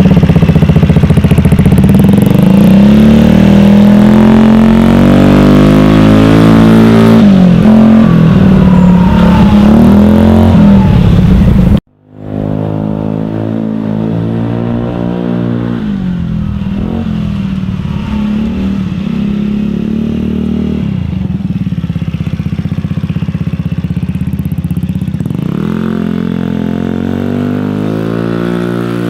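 Longjia LJ50QT-3L 50cc scooter engine running through a Lextek sports exhaust while riding, its note rising and falling as the throttle opens and closes. About twelve seconds in the sound cuts out for a moment and comes back quieter.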